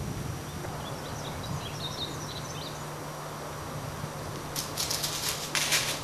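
Small birds chirping in short high notes for a couple of seconds, over a steady low hum. Near the end, a cluster of loud, harsh rustling bursts.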